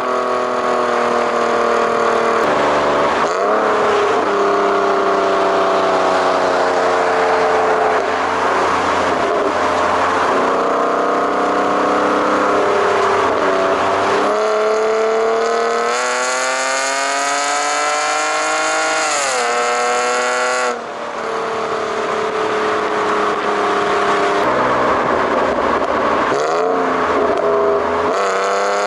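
BMW E46 engine and exhaust running, held at a steady pitch for long stretches, climbing in pitch through the middle, then falling off sharply with a short drop in loudness before picking up again near the end.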